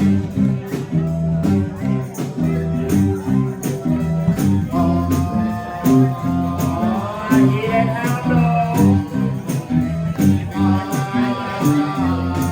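Live blues band playing an instrumental break: a repeating bass line and drums under a lead solo line that comes in about five seconds in, bending and sliding its notes.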